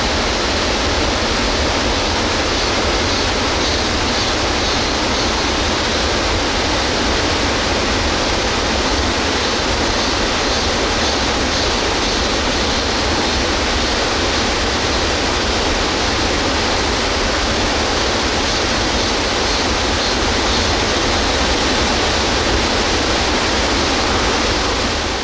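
Rain-swollen mountain water rushing over rocks, a loud steady rush without a break.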